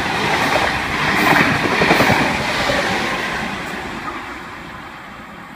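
V-set double-deck intercity electric train passing through the station without stopping, its wheel and rail noise loudest a second or two in, then fading away over the last couple of seconds as it leaves.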